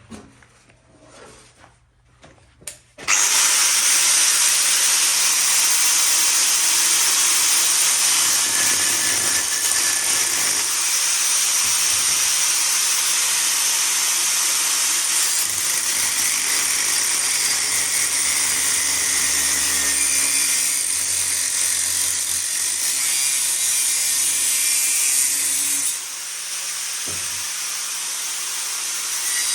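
An angle grinder starts about three seconds in and runs steadily against steel pipe, cutting or grinding; the noise eases a little near the end. A few light handling knocks come before it.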